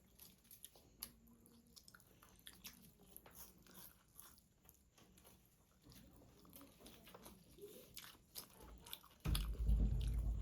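Close-up chewing of rice with chicken curry: a string of small wet mouth clicks and smacks. About nine seconds in, a much louder low rumble sets in and continues.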